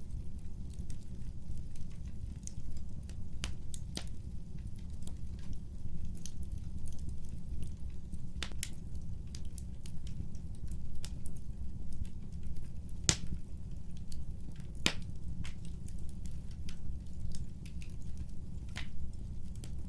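Wood fire burning: a steady low roar of the flames with irregular sharp crackles and pops from the burning wood, the loudest pop about two-thirds of the way through.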